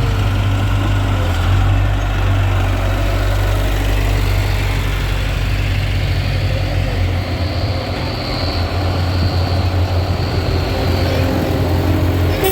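Tractor engines running with a steady low drone; about seven seconds in, the deepest part of the drone drops away.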